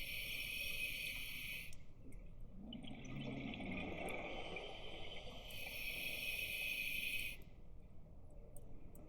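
Scuba diver breathing through a regulator underwater: a hissing inhalation, then a gurgling rush of exhaled bubbles from about two and a half seconds in, then a second inhalation hiss.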